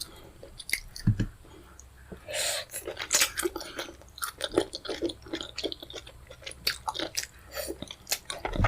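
Close-miked eating sounds: wet chewing and lip smacking of fufu and pepper soup, with irregular short clicks and slurps.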